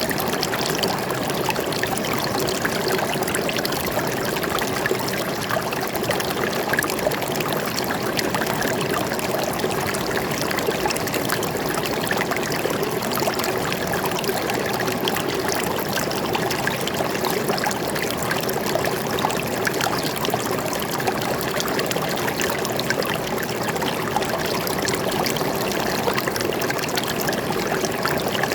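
Water running over stones in a small forest stream, a steady babbling and trickling.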